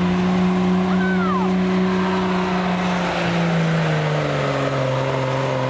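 Diesel pulling truck's engine running hard at steady high revs with a rushing noise, then the revs drop about three seconds in and hold lower.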